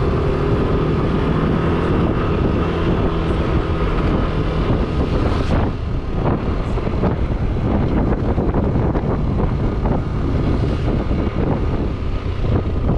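Yamaha NMAX 155 scooter riding along the road: a steady engine hum under heavy wind rumble on the microphone.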